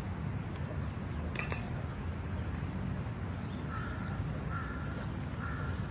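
A bird giving three short calls, a little under a second apart, in the second half, over a steady low rumble. A single sharp click comes about a second and a half in.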